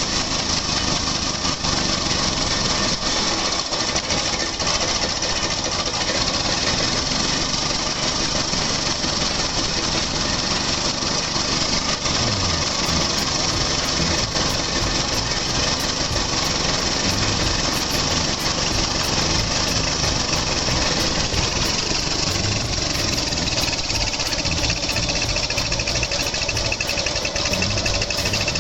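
Daihatsu Midget DKA single-cylinder two-stroke engine running steadily with a fast, rattly pulsing beat.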